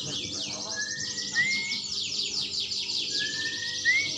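Canaries singing a fast, continuous trilled song of rapid repeated high notes, with two rising whistled notes about two seconds apart.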